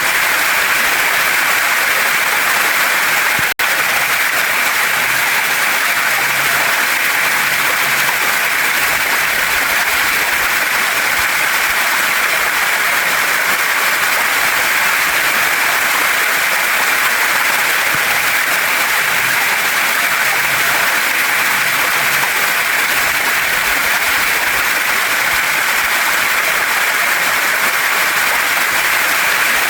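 Waterfall and mountain stream water rushing over rocks in a steady, even hiss, with one split-second dropout in the sound a few seconds in.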